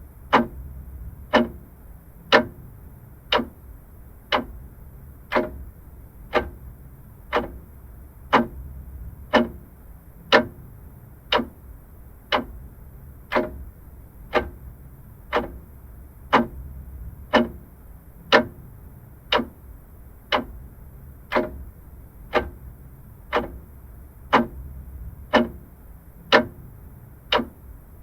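Vintage mechanical clock ticking steadily, about one tick a second, over a low background hum.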